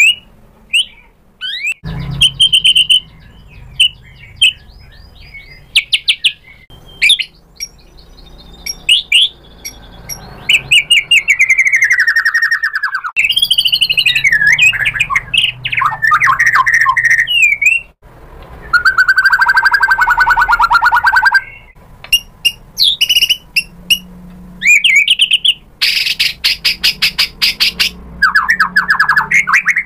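White-rumped shama singing a varied song: clear whistles, slurred notes that swoop up and down, and phrases of fast rattling chatter, one about two seconds long near the end.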